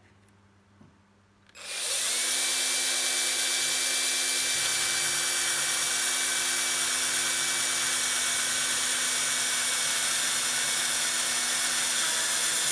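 Power drill starting about a second and a half in, spinning up with a short rise in pitch and then running at a steady whine while a 3 mm bit drills through a vintage bicycle quick-release skewer lever.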